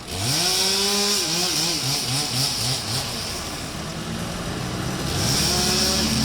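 Chainsaw revving up, its engine pitch wobbling up and down repeatedly under load, easing off and revving again near the end, with a steady high hiss throughout.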